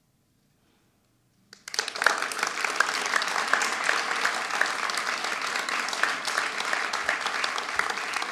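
Audience applauding after about a second and a half of near silence; the clapping starts suddenly and stays steady.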